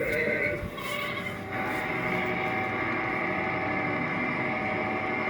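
Jolly Roger tractor kiddie ride running: a steady humming drone with several held steady tones, and a short gliding tone about a second in.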